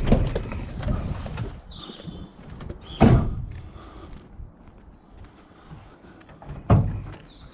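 Three loud thuds, a few seconds apart, as heavy objects are knocked and moved about, with a few faint bird chirps in between.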